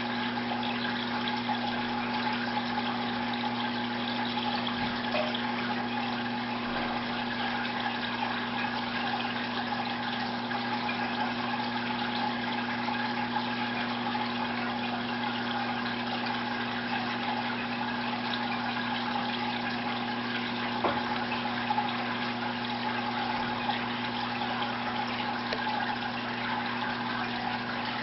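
Aquarium filter running: a steady flow of trickling, splashing water with a constant low hum from its pump motor.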